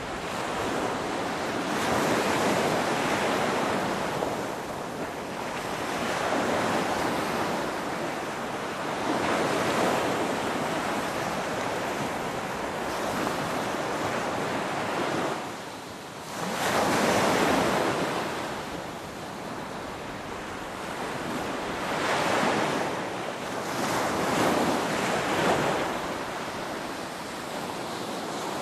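Ocean waves rolling in one after another, each surge swelling up and washing back. After a short lull a little past the middle, the loudest wave of the stretch comes in.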